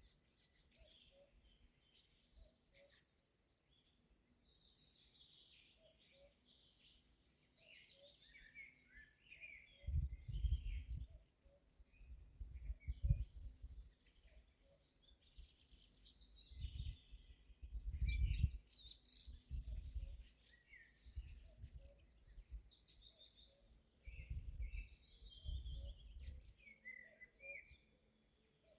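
Several wild birds singing and calling together in a spring chorus of overlapping trills and chirps. Several bursts of low rumble come in and out underneath.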